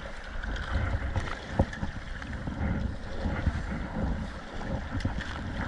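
Wind buffeting the microphone over water splashing and churning around a kayak in rough sea. There are two short sharp knocks, about a second and a half in and again near the end.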